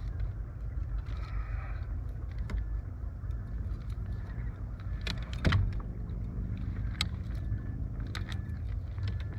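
Fishing gear and a netted fish being handled in a small inflatable boat: scattered clicks, rattles and knocks, with one louder thump about five and a half seconds in, over a steady low rumble.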